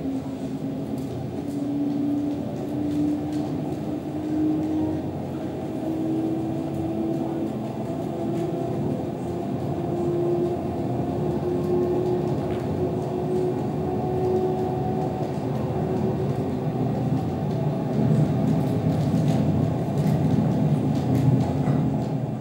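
A train running, with a steady rumble and one tone that climbs slowly in pitch all the way through.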